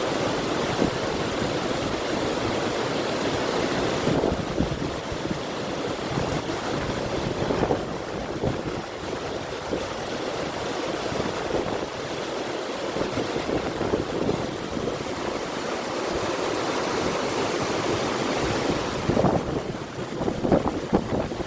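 A river flowing: a steady rush of water with wind over it, growing more uneven and splashy near the end.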